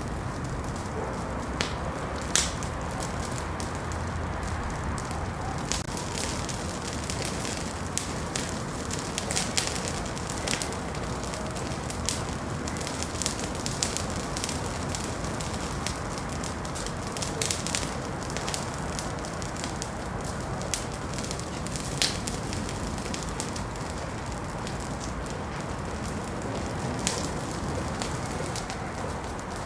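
Wood fire crackling in a fireplace: a steady low hiss with irregular sharp pops and snaps scattered throughout.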